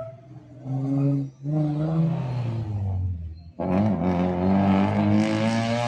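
Cars' engines on a street-race track: one engine note holds, then falls away over a couple of seconds. About three and a half seconds in, a second, louder car starts hard acceleration, its engine note climbing.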